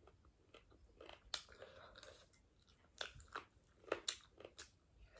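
A person chewing and crunching food, with sharp crunchy bites scattered irregularly through it; the loudest come about a second and a half in and around four seconds.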